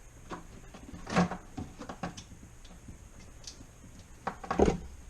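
Scattered light clicks and knocks of handling, with a louder knock about a second in and another near the end.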